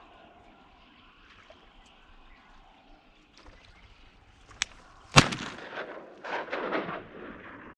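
A single shotgun shot from a 28-gauge about five seconds in, preceded by a sharp click and followed by a couple of seconds of irregular rustling and splashing noise. The sound cuts off abruptly.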